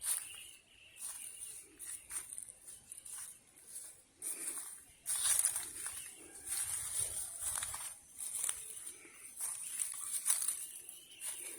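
Footsteps of a person walking up an outdoor path, a short step sound about every half second to second, getting louder about five seconds in, with a high hiss coming and going.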